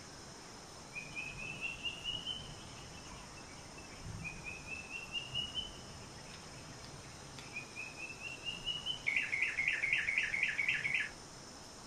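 Wild bird song in forest: three rising runs of quick notes, then a louder, fast pulsing phrase lasting about two seconds near the end, over a faint steady insect hiss.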